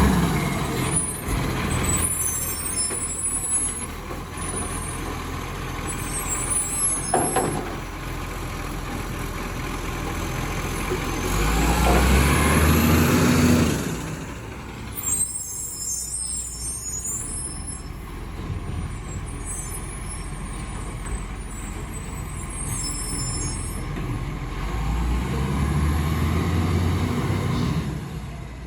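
Garbage truck's diesel engine running, swelling louder about halfway through and again near the end, with air-brake hisses.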